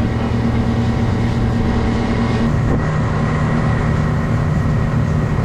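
Outboard motor of a 23 ft tri-toon boat running under way, with a steady rush of wind and water. Its low tone changes about halfway through.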